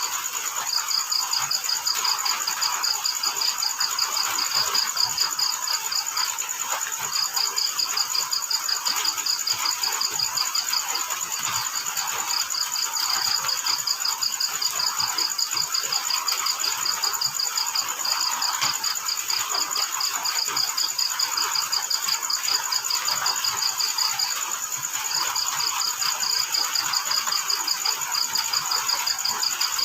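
Crickets chirping: one sings fast, even pulses in runs of several seconds broken by short pauses, over a steady higher insect trill and an even hiss.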